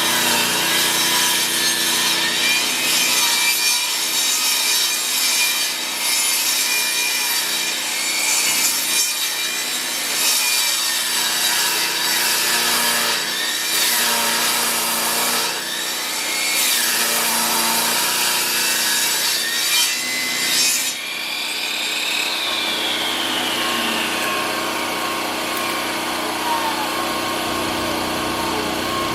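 Table saw ripping a rough-sawn lumber board along its length, the blade cutting with a dense, wavering noise. About two-thirds of the way through the cut ends and the saw runs on unloaded with a steadier hum.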